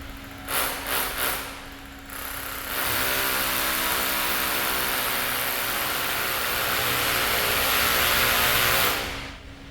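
An engine running, rising to a loud steady run about three seconds in and cutting off near the end, over a faint steady hum.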